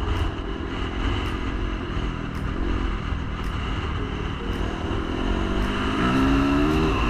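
Dirt bike engine running on a trail ride under a heavy low rumble, then revving up, its pitch climbing over the last couple of seconds.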